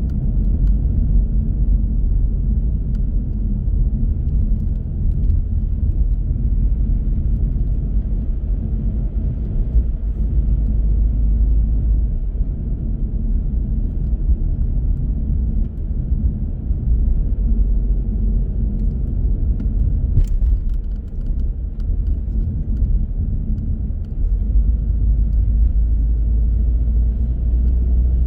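Car driving along a road: steady low rumble of engine and tyre noise that eases slightly around two-thirds of the way through.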